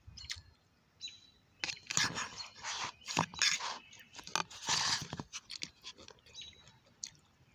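A person chewing a mouthful of bell pepper and broccoli close to the microphone: irregular chewing noises, loudest from about two to five seconds in.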